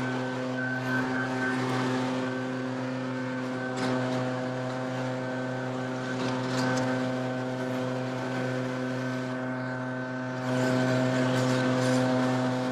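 Two-stroke backpack leaf blower running steadily at high throttle, getting louder about ten and a half seconds in.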